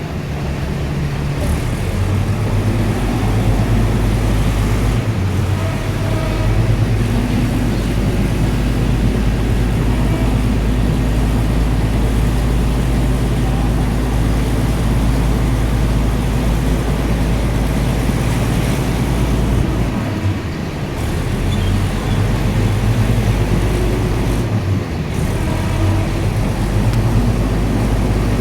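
Passenger train running along the line, a steady low rumbling drone with track and running noise over it. The deepest part of the drone fades briefly twice in the second half.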